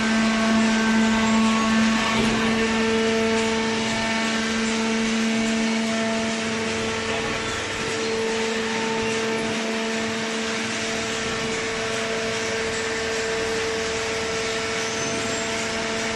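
Industrial cardboard baler running: a steady mechanical hum and whine from its hydraulic drive, with a noisy clatter under it.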